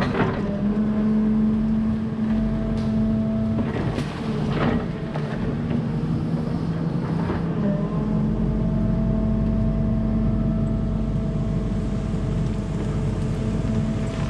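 Volvo 140 excavator's diesel engine running under hydraulic load, its hum shifting in pitch a few times as the machine works. A few sharp cracks come near the start and about four to five seconds in, likely wood breaking as a tree is pulled out.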